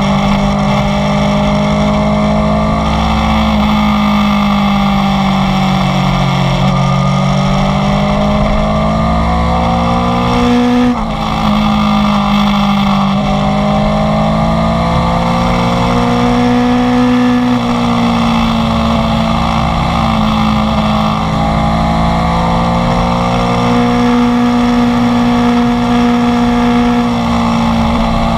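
Inline-four sport motorcycle engine running under way, its pitch rising and falling gently with the throttle, with short dips in revs about 11 and 17 seconds in; wind noise underneath.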